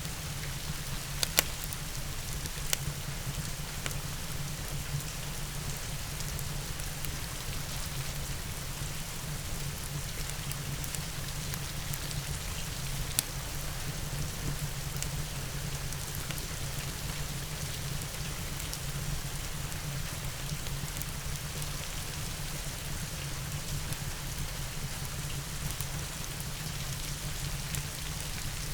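Steady rain with a constant low rumble underneath, and a few sharp pops of a crackling wood fire, the loudest about a second in and near the middle.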